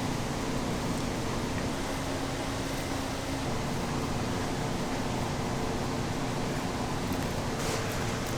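Steady whir of a fan-like machine with a faint hum under it, unchanging throughout, and a couple of light clinks near the end.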